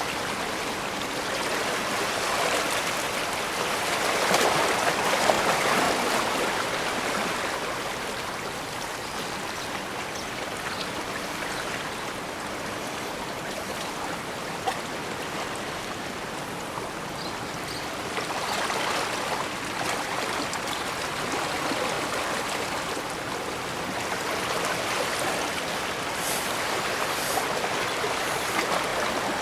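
Water washing steadily on the bay's shore. It swells louder about four seconds in and again around twenty seconds, as waves come in.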